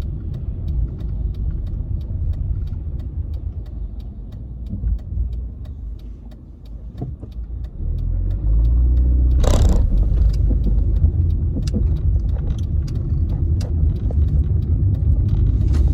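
Road noise of a car being driven, heard from inside: a steady low rumble that gets louder a little past halfway as the car picks up speed, with a short loud whoosh just after. Faint, evenly spaced light clicks run through it.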